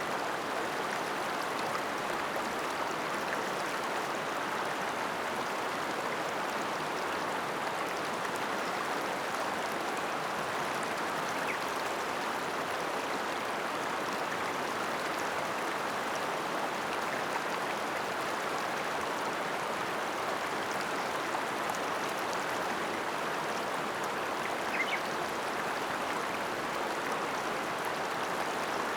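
The Ōta River flowing: a steady, unbroken rush of running water.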